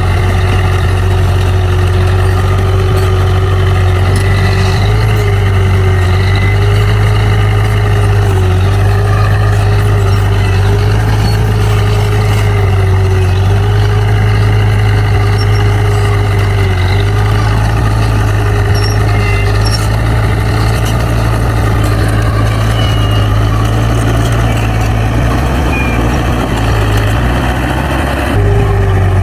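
D60 bulldozer's diesel engine running steadily under load while the machine pushes soil, with a steady drone that wavers slightly in pitch. The sound changes briefly about a second before the end.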